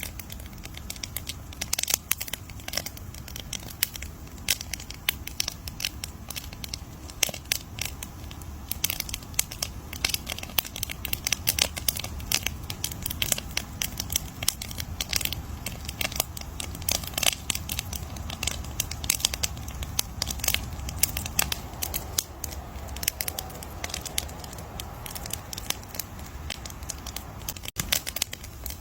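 Campfire crackling: dense, irregular sharp pops and snaps of burning wood over a low steady rumble.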